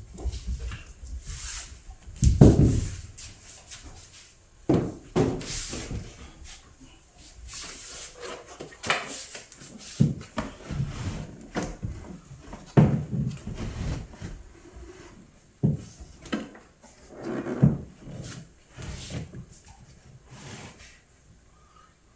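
A large framed picture being handled and held up against a wall: irregular knocks, bumps and rubbing, with the heaviest thumps about two and a half seconds in and twice more later on.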